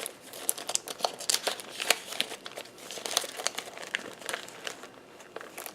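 A pocket letter and the crafting papers in a mail binder being handled, crinkling and rustling in many quick, irregular crackles that thin out near the end.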